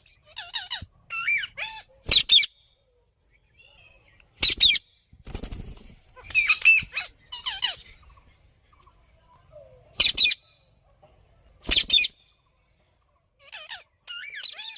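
Rose-ringed (Indian ringneck) parakeets calling. Four loud, short, harsh screeches come spaced a few seconds apart, with warbling, chattering chirps that slide up and down in pitch between them.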